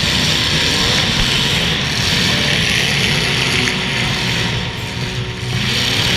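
Demolition derby cars' engines running together in a steady, loud racket, with no clear crash impacts.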